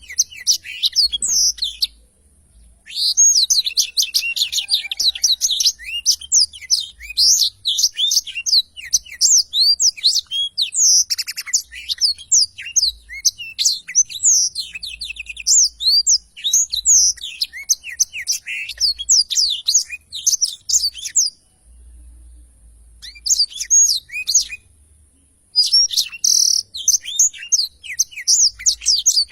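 Black-throated canary (blackthroat) singing its long rolling song: fast, continuous runs of twittering trills and chirps. The song breaks briefly about two seconds in and pauses for about four seconds in the last third before starting again.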